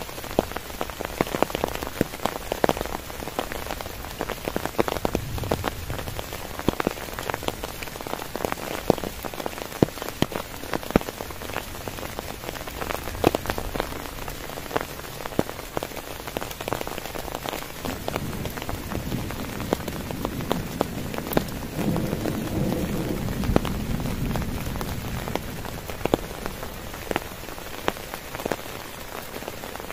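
Heavy rain falling on a tent, a steady hiss dense with sharp individual drop hits. A low rumble swells up about twenty seconds in and fades a few seconds later.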